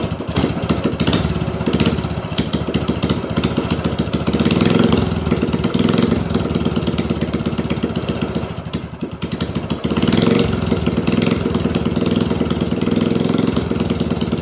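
A minibike's small engine running steadily with fast, even firing pulses. It has no clutch or chain fitted yet. It dips briefly about nine seconds in, then picks back up and runs a little stronger.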